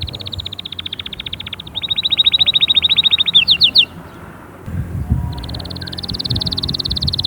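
Domestic canary singing: rapid trills of repeated high notes, with a louder trill about two seconds in, a short pause just after the middle, then the trilling starts again.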